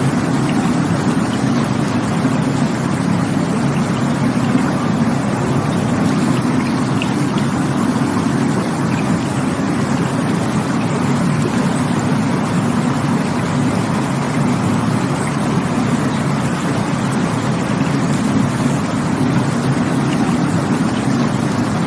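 Rushing water from a stream running steadily: an even, unbroken rush, heaviest in its low part.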